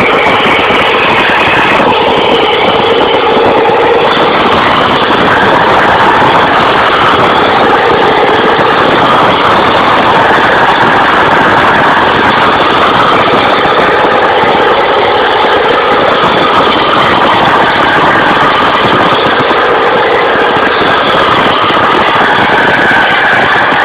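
Vehicle engine running steadily and loudly, with no change in pitch or level.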